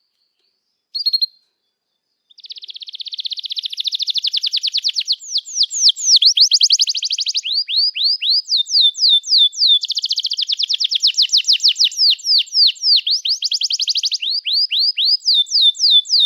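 Domestic canary singing a long, unbroken song of fast trills and rapid series of downward-sweeping notes, changing phrase every second or two. It starts after a single short chirp about a second in.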